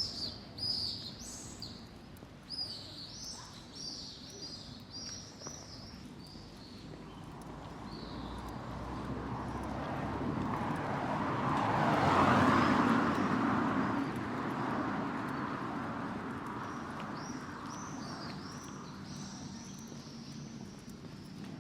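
Small birds chirping in quick repeated calls, and a vehicle passing by, swelling to its loudest about twelve seconds in and then fading away while the chirping carries on.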